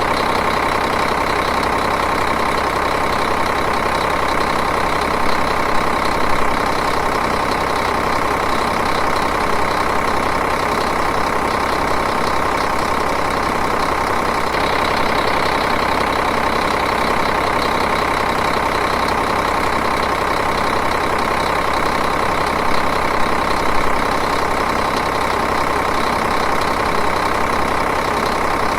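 Diesel engine idling steadily, an even, unbroken running sound.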